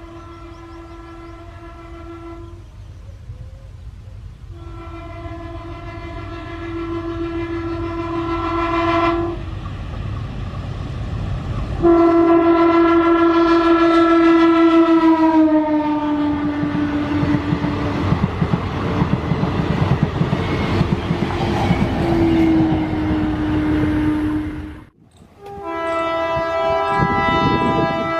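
DEMU diesel local train sounding its horn in several long blasts as it approaches, growing louder. The horn's pitch drops as the train passes about halfway through, followed by the rumble of wheels on the rails. After a sudden short break near the end, the horn sounds again.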